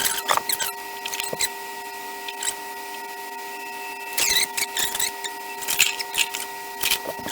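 Hot-air SMD rework station blowing with a steady whine of several pitches. Bursts of clicking and scraping come near the start, about four seconds in and again around six seconds.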